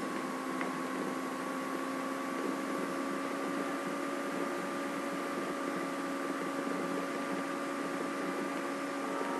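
A steady hum made of a few held tones over an even background hiss, unchanging in level.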